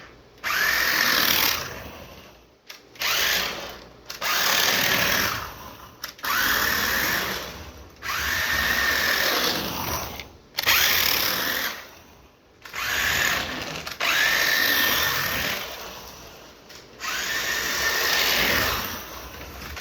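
Small toy RC drift car's electric motor whirring in repeated bursts as the throttle is pulsed. Each burst spins up quickly to a steady high whine and then dies away, about nine times over twenty seconds.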